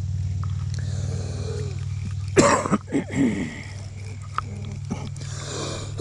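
A low, steady engine hum, with a short loud throaty sound, like a grunt or cough, about two and a half seconds in.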